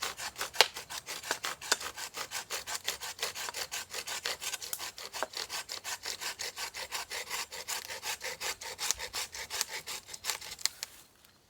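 Hand saw cutting through wood in fast, even back-and-forth strokes, stopping abruptly near the end.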